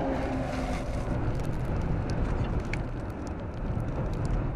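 Storm winds of over 60 mph, a steady rushing noise with a heavy low rumble, with scattered small ticks through it.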